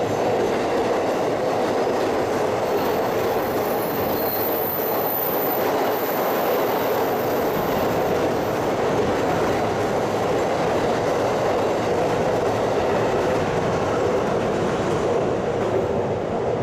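Class 923 Doctor Yellow shinkansen test train running past on the elevated track, a steady rumble of wheels on rail.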